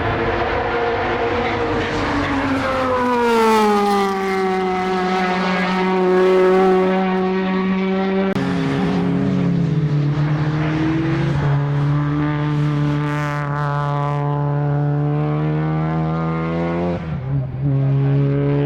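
Race car engine running hard. Its pitch glides down a little about three seconds in, then drops suddenly three times, about 8, 11 and 17 seconds in, holding fairly steady between the drops.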